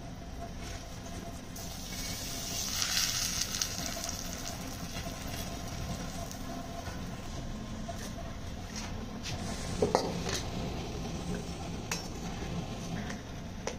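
Stuffed radish (mooli) paratha frying on a hot iron tawa over a wood fire, sizzling, strongest about two to four seconds in. Metal tongs clink against the pan several times in the second half.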